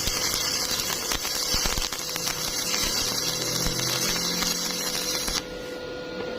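Electric welding arc crackling and spitting, with many sharp pops, until it cuts off suddenly about five seconds in.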